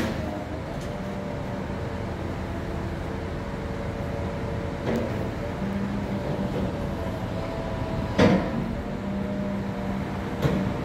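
Heavy diesel machinery, a truck or crane engine, running steadily with a held drone. A short, sharp noise stands out about eight seconds in, with a fainter one around five seconds.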